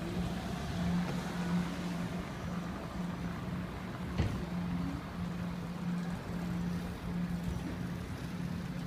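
A vehicle engine runs with a steady low hum over a constant hiss of street ambience. There is a single sharp knock about four seconds in.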